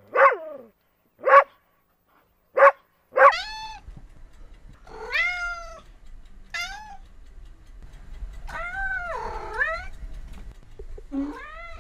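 Four short, sharp animal calls about a second apart, then a cat meowing several times, one long wavering meow a little past the middle, over a low steady hum.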